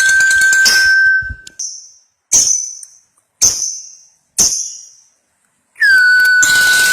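Lovebird's long rapid chattering trill (ngekek panjang), with a steady whistle-like tone under it. It breaks off about one and a half seconds in, and four separate short ringing notes follow. The chatter starts again near the end.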